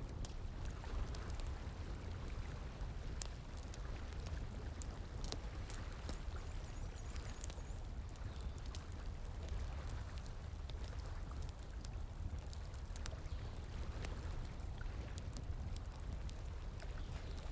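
Wood fire crackling with irregular pops and snaps over the steady rush of flowing stream water.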